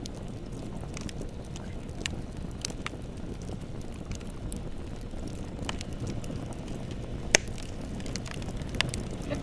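Bonfire burning with a steady low rumble and scattered sharp crackles and pops, the loudest a single crack about seven seconds in.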